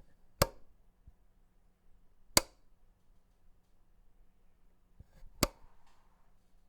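A wall light switch being flicked, three sharp clicks spaced a couple of seconds apart.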